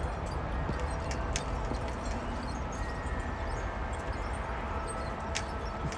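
Wind buffeting the microphone with a steady low rumble, while wind chimes ring faintly in it: a few long held tones and a couple of sharp clinks.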